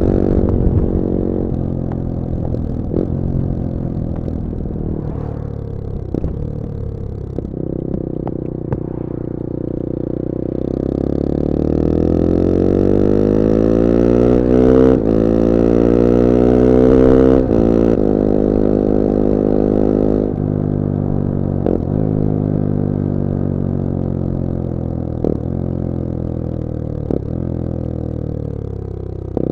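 Bullit Hero 250's CF Moto 250cc four-stroke engine running on the move, its note fairly steady at first. From about ten seconds in the engine note rises under acceleration, then it drops suddenly near seventeen seconds and settles to a steady cruise. A few sharp clicks come through at intervals.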